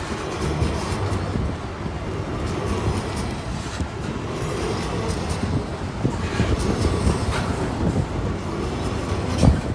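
Freight train wagons rolling past: a steady low rumble with irregular clanks from the wheels and cars, and one louder clank near the end.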